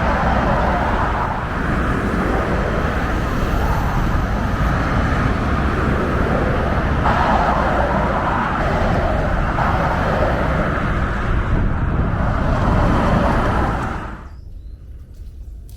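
Steady road-vehicle noise, a dense rumble of car and traffic, that cuts off sharply about fourteen seconds in, leaving a much quieter background.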